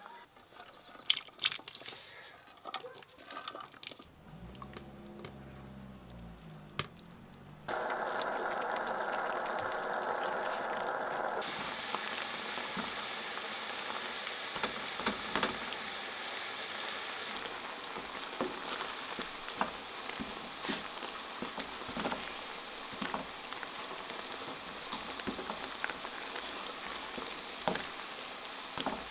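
Chopped tomatoes and sweet peppers sizzling and crackling in a frying pan as a wooden spatula stirs them. A few sharp clicks come in the first seconds, and the steady sizzle comes in loudly about eight seconds in.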